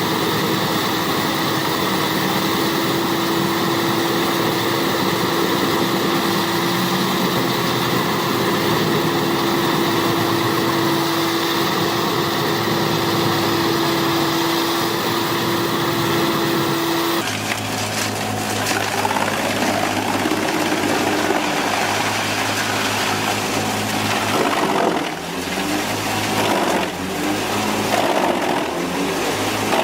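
Large wood chipper running with a steady engine drone and a constant hum. A bit past halfway the sound changes abruptly to a rougher, lower engine note that rises and falls as the machine works.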